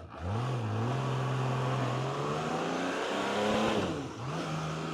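Honda CBX1000Z's inline six-cylinder engine is revved off idle and held at raised revs, climbing a little higher about three and a half seconds in, then dipping briefly and settling. The engine runs smoothly and mechanically quiet.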